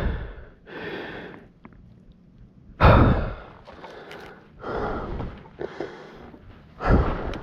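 A man breathing hard, exhausted from struggling up a steep hill: heavy breaths in and out, with loud gasping breaths at the start, about three seconds in and near the end.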